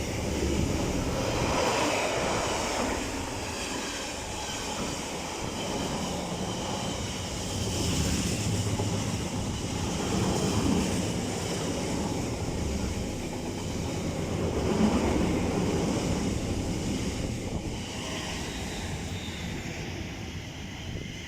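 Train running past on the main line, steady wheel and rail noise that swells and fades every few seconds.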